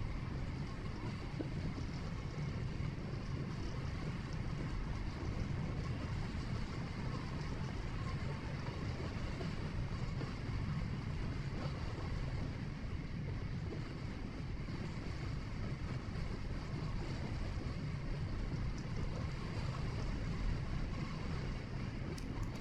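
Steady road and engine noise of a vehicle driving, heard from the dash cam, with a constant low rumble and no sudden events.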